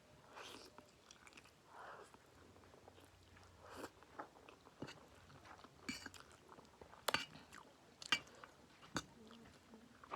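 Close-up eating sounds of a person chewing and biting instant noodles: wet chewing and smacking with a few sharp clicks, the loudest about seven and eight seconds in.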